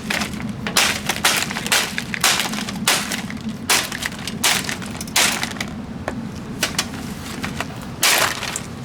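Lasko box fan's plastic housing cracking and snapping under a truck's tyres: a string of irregular sharp cracks, roughly one every half second to second. The truck's engine runs low and steady underneath.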